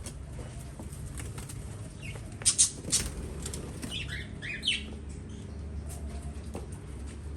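Small aviary birds moving about: a few sharp taps and flutters about two and a half to three seconds in, then a quick run of four short falling chirps about four seconds in, over a steady low hum.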